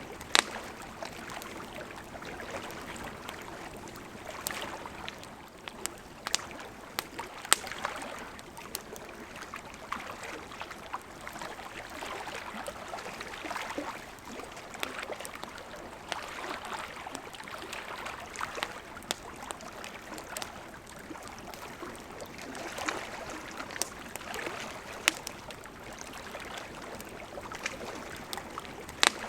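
Campfire crackling, with irregular sharp pops, over a steady wash of lake water lapping at the shore.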